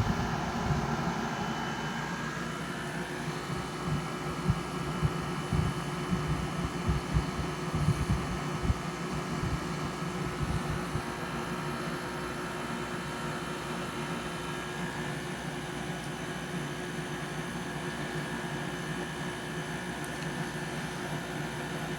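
UberHaus air conditioner running just after being switched on: a steady fan and motor hum with several constant whining tones, and a tone shifting about three seconds in. Irregular low thumps and rumbles come through in the first half.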